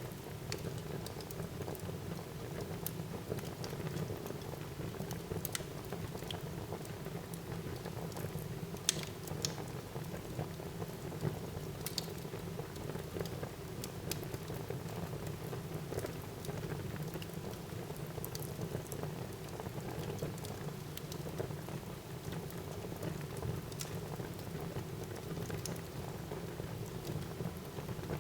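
Wood fire burning in a fireplace: a steady low rustle of flames with scattered sharp crackles and pops, one louder pop about nine seconds in.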